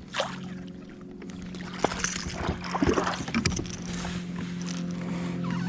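Kayak on the water: scattered splashes and light knocks on the hull, over a steady low hum.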